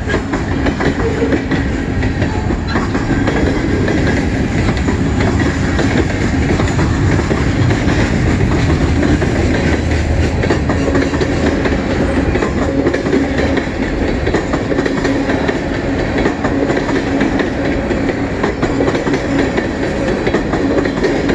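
Freight cars of a mixed freight train rolling past close by, steel wheels clattering and rumbling steadily over the rails. The cars are lumber-loaded flatcars followed by tank cars.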